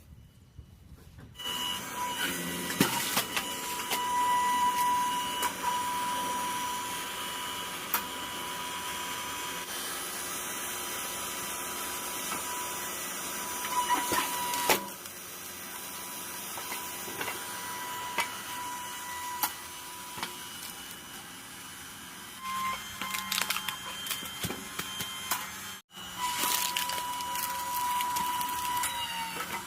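Hydraulic log splitter running with a steady high whine from its motor and pump, broken by sharp cracks of logs splitting. The whine starts about a second and a half in and stops abruptly once, near the end, before starting again.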